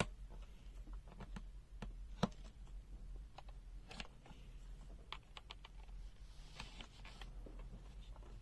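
Faint, irregular light clicks and taps, the loudest about two seconds in, over a steady low hum.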